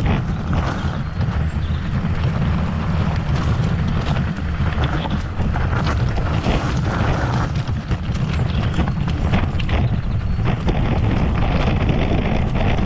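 Wind buffeting a camera microphone during a fast mountain-bike descent, a heavy steady rumble, with frequent clicks and rattles from the bike and tyres over rough, rocky trail.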